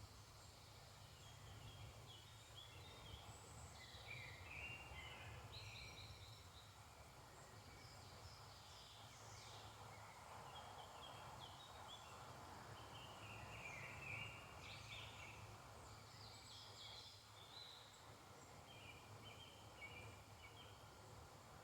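Faint woodland songbird chorus: many short, overlapping chirps and trills from several birds, over a low steady rumble.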